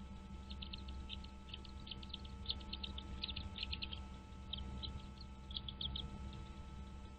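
Birds in a nest chirping: short, high chirps in quick clusters of two to five, over a steady low hum.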